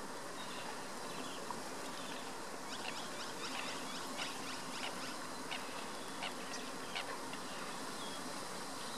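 Birds chirping: a scattered run of short, high calls in the middle, several a second, over a steady outdoor hiss.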